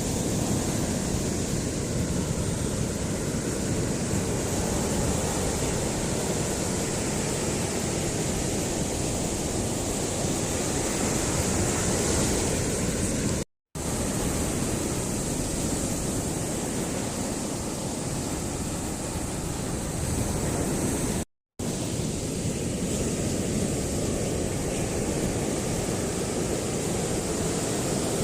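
Steady rushing of ocean surf on a beach, mixed with wind noise on the microphone. The sound drops out twice for a split second.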